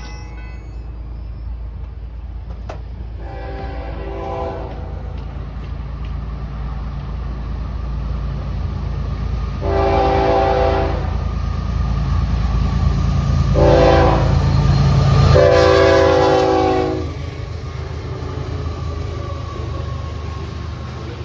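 Florida East Coast freight train's diesel locomotives rumbling as they approach and pass. The air horn sounds a chord in four blasts, long, long, short, long: the standard grade-crossing warning.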